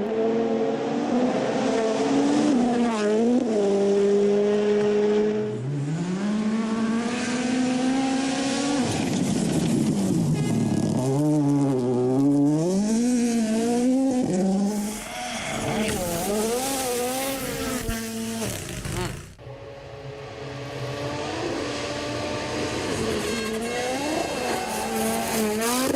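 Rally car engines revving hard at speed, the pitch climbing and dropping with throttle and gear changes. A sudden break about three quarters of the way through gives way to another car's engine.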